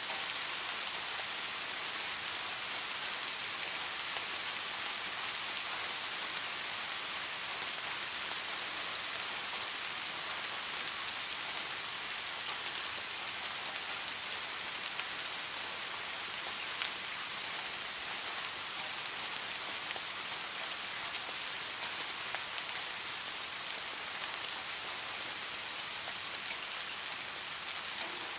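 Steady rain falling, an even hiss with the odd sharper drop click.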